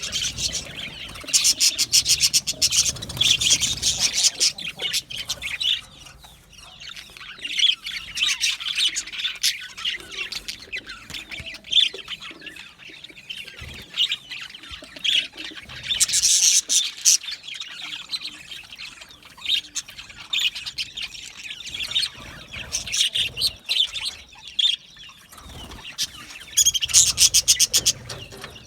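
A flock of budgerigars chirping and chattering, with a steady run of high chirps and louder rapid bursts of chatter about a second in, around the middle, and near the end.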